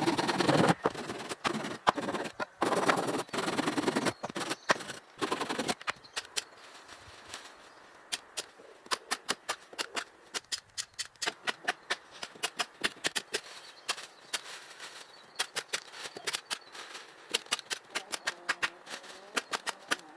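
Hand work on wood: a few seconds of rough rasping, then a long, irregular run of sharp taps and knocks, a few a second.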